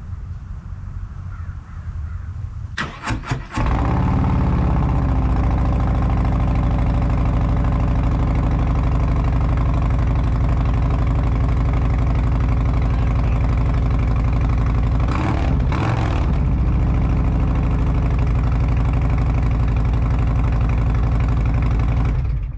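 2024 Harley-Davidson Road Glide's Milwaukee-Eight 117 V-twin cold-started through TAB Performance 4.5" slip-on mufflers with zombie baffles. The starter cranks for about half a second around three seconds in, then the engine catches and settles into a loud, steady idle. The sound cuts off suddenly near the end.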